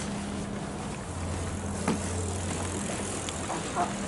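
A steady low mechanical hum, like an engine running at idle, with a couple of faint knocks.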